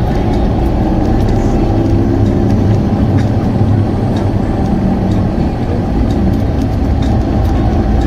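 Car engine running steadily with tyre and road noise, heard from inside the cabin while driving: a continuous low drone.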